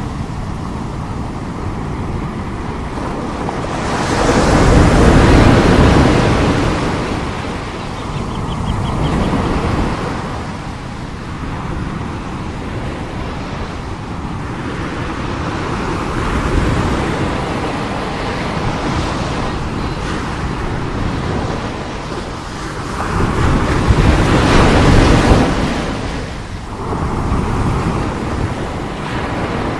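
Heavy sea waves breaking and washing on the shore: a steady rush of surf with two big breakers swelling louder, one about four seconds in and another about twenty-three seconds in.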